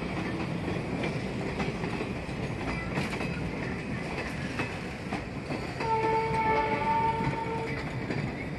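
Indian passenger train running on its rails, heard from inside a coach at an open barred window: a steady rumble with sharp clicks over the rail joints. About six seconds in, a train horn sounds steadily for about two seconds.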